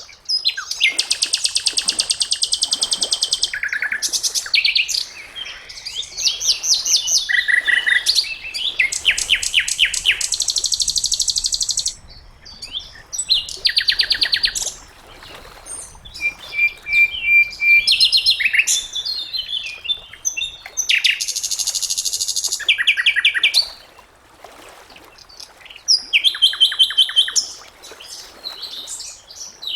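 Sikatan londo, a flycatcher, singing a fast, varied song: phrases of rapid trills and chattering notes a second or two long, separated by brief pauses.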